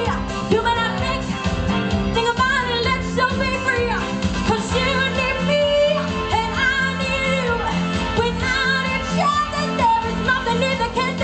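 Live pop-rock band playing under a female singer's wordless vocal runs, with a steady bass and drum beat.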